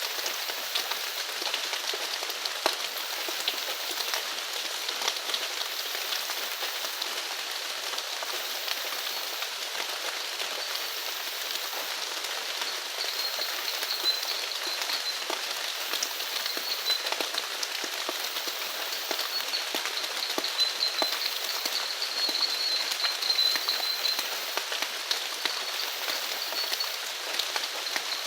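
Steady rain falling, dense with the small ticks of individual drops. From about halfway, a faint, high, wavering call sounds over it for several seconds.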